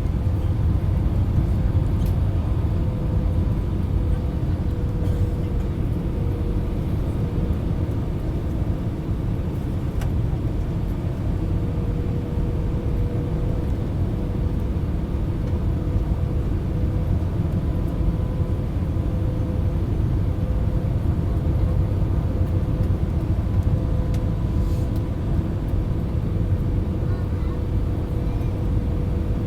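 Airbus A319 airliner cabin noise: a steady low rumble of engines and airflow with a faint, constant whine over it.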